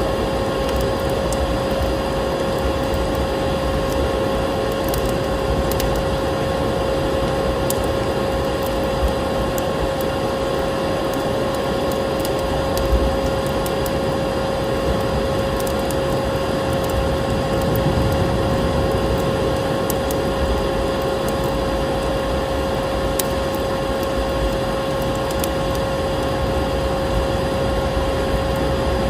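Vacuum cleaner running steadily with a constant whine, mixed with a wood fire crackling and popping in a fireplace.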